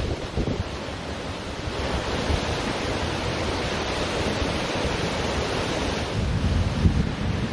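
Ocean surf washing steadily onto a beach, with wind gusting against the microphone, the low rumble of the wind strongest near the end.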